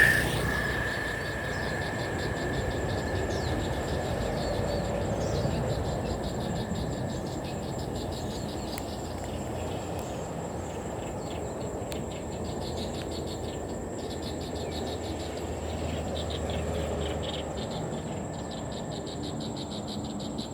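Insects chirping in fast, even pulses over a constant low rumble. A steady high tone starts loud and fades away over the first several seconds.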